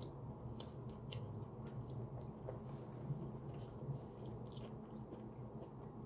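Close-up mouth sounds of someone biting into and chewing a pickled jalapeño pepper: small wet clicks and smacks scattered through the chewing. A steady low hum runs underneath.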